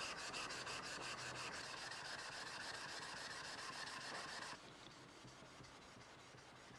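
Steel rubbing back and forth on a wet sharpening stone: a Japanese plane blade being honed. The scraping is steady at first and turns quieter about four and a half seconds in.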